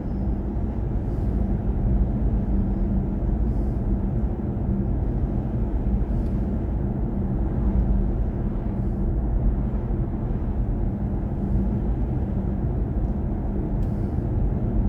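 Steady road and tyre noise inside the cabin of a BMW i4 M50 electric car on the move, with a low steady hum underneath.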